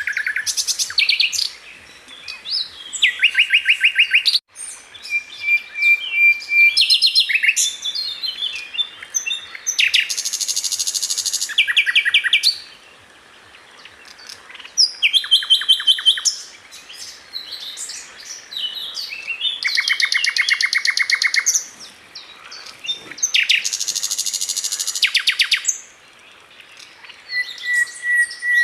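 Sikatan londo flycatcher singing: rapid, stuttering trills and buzzy chattering phrases in bursts of a second or two, with short pauses between.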